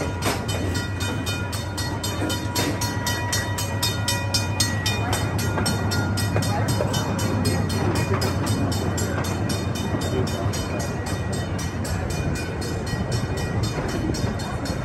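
Small park train running steadily, heard from an open passenger car: a low engine hum under rolling wheel noise with rapid, even clicking. A faint high steady tone fades out about five seconds in.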